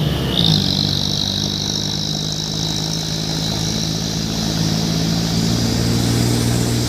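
Truck engine running steadily through a Cung-style exhaust, with a high whine over it that settles to a steady pitch about half a second in.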